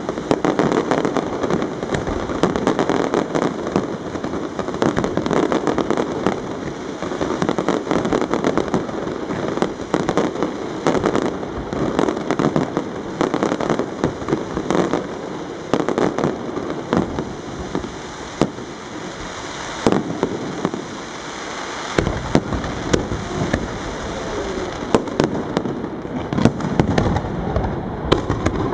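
Aerial fireworks shells bursting in quick succession, with dense crackling and many sharper bangs.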